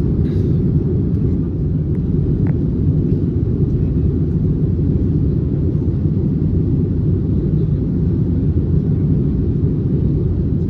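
Steady low rumble inside the cabin of an Airbus A321neo airliner in flight: engine and airflow noise heard from a passenger seat.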